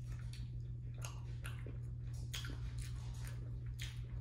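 A person chewing a mouthful of sauce-covered chicken nugget, with short irregular chewing clicks several times a second over a steady low hum.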